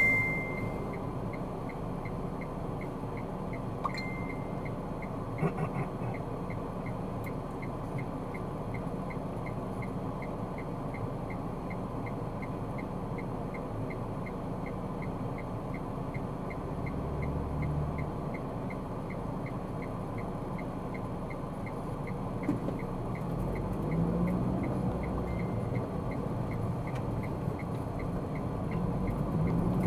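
Car driving noise heard from inside the cabin: a steady low rumble of engine and tyres on the road. A faint regular ticking, about two a second, runs under it, and a short beep sounds at the very start.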